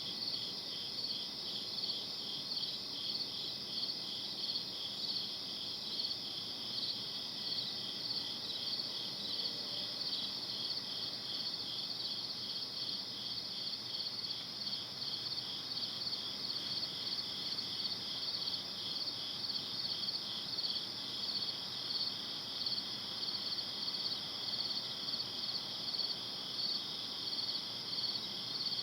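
Night insects, crickets, chirping in a steady chorus of high, evenly repeating pulses that never let up.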